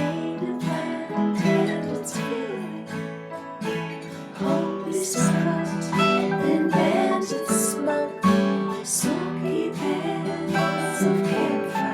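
Acoustic guitar music, strummed and plucked, with a steady beat.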